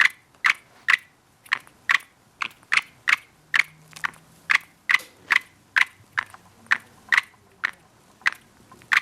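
Budgerigar's beak pecking or cracking seeds: a steady run of short sharp clicks, about two a second.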